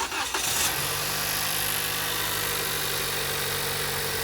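Toyota Camry engine starting after a fresh oil change. There is a sudden brief burst at the start, then it settles into a steady idle.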